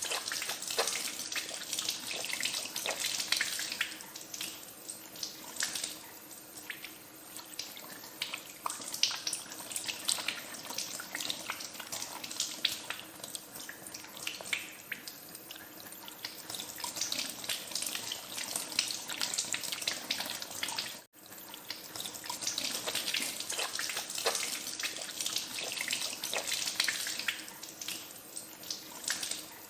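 Tap water running into a sink with hands being washed in the stream, splashing unevenly in louder and quieter spells. The water sound breaks off for an instant about two-thirds of the way through, then resumes.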